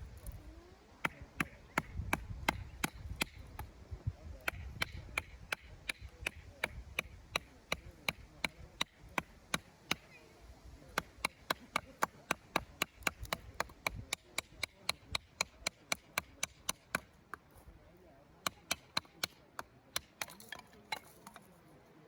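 Small pieces of firewood being chopped into kindling: a long run of sharp wooden knocks, about three a second, with a short pause near the end.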